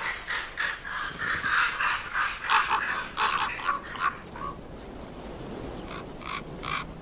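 Ravens calling harshly, a rapid run of caws for the first four seconds or so, then three short calls near the end.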